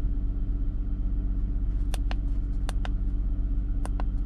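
Car engine idling steadily, heard from inside the cabin as a low hum. A few sharp clicks of the handheld OBD2 scanner's buttons being pressed come about two seconds in, twice close together just after, and once near the end.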